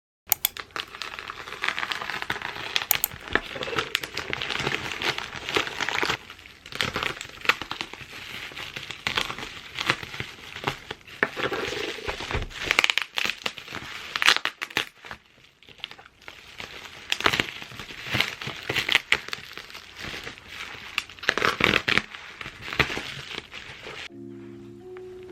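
Plastic packaging being handled, crinkling and rustling with many small sharp crackles, as in unwrapping. Soft music with distinct pitched notes comes in near the end.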